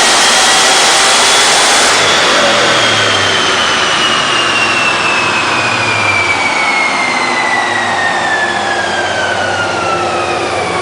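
2010 Cadillac CTS-V's supercharged 6.2-litre V8 at the top of a full-throttle chassis-dyno pull, then the throttle closes about two seconds in and the engine and dyno rollers wind down, a high whine falling steadily in pitch as they slow.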